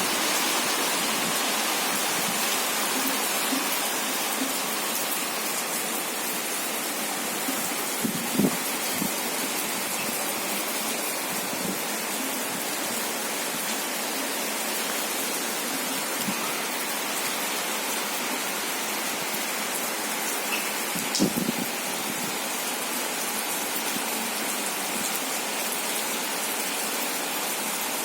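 Steady rain falling, an even hiss with no pitch, with two brief louder knocks about eight and twenty-one seconds in.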